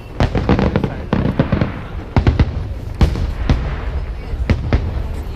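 Aerial fireworks bursting in a rapid string of sharp bangs and deep booms, with crackling between the blasts.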